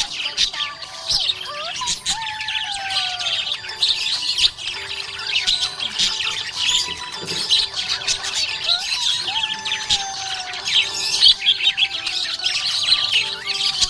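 Budgies chirping and chattering without pause: a dense stream of quick, high chirps with a few longer sliding whistled notes.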